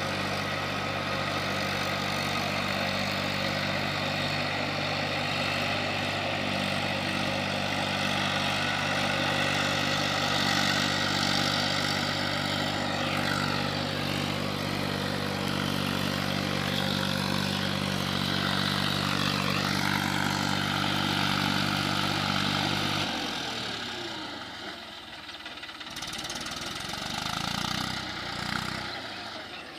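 Eicher 480 tractor's diesel engine running steadily at an even speed, its low tones cutting out suddenly about 23 seconds in, leaving only fainter mixed sounds.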